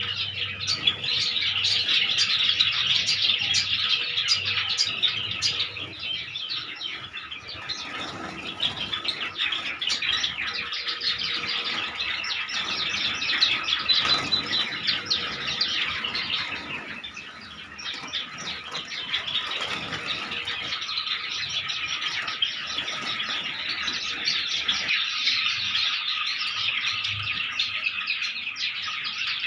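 A flock of Java sparrows chirping all together, many short calls overlapping without a break.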